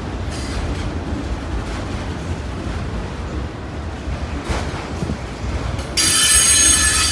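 A CSX autorack freight train rolling past with a steady low rumble. About six seconds in, a loud, high-pitched metallic wheel squeal cuts in and lasts about a second.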